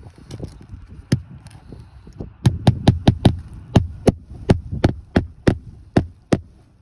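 Hammer driving roofing nails through a replacement shingle. One strike comes about a second in, then a quick run of a dozen or so sharp blows over about four seconds.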